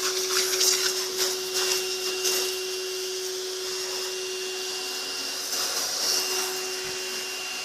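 Pressure washer running with a steady whine while its jet sprays with a hiss, surging in uneven gusts for the first couple of seconds and again around six seconds in.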